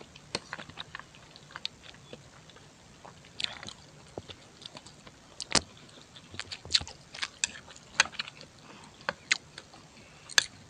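Close-miked person chewing and biting food, with irregular sharp clicks from the mouth.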